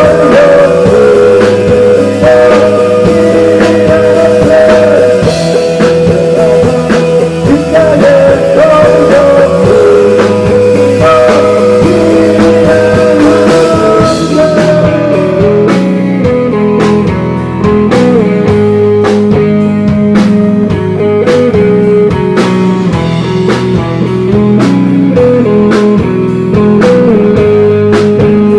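Live rock band playing loudly: electric guitars, bass and drums. About halfway through, the hiss of the cymbals stops and the beat carries on as separate sharp drum hits under held guitar notes.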